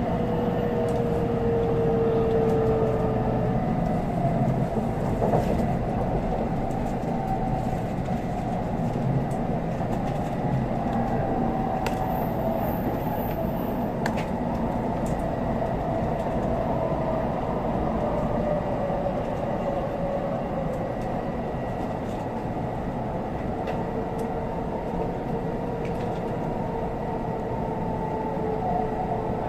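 Cabin noise of an N700S Shinkansen running at speed: a steady rumble from the wheels and track, with a faint whine that slowly drifts in pitch.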